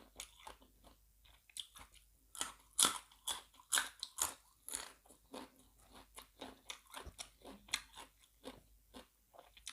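A person chewing a mouthful of seafood larb with raw vegetables close to the microphone: irregular crisp crunches, a few a second.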